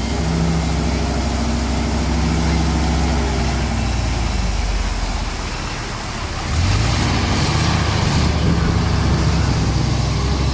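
Engine of a historic fire engine running steadily; the note fades about four seconds in, then an engine picks up with a rising note about six and a half seconds in and keeps running.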